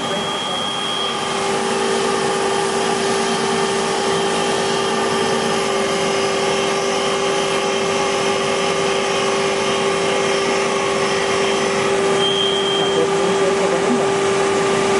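Hager HD300A-CNC computer-controlled wood lathe running steadily: a constant motor hum with one strong steady tone under a rushing machining noise. A short high whine sounds at the start and again near the end.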